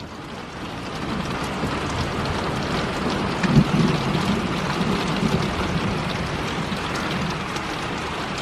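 Heavy rain pouring steadily during a thunderstorm, with a low rumble of thunder swelling about three and a half seconds in and fading over the next two seconds.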